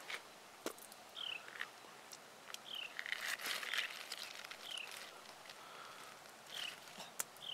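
A bird's short falling call, repeated about every one and a half to two seconds, over scattered clicks and a louder burst of rustling and scuffing about three seconds in.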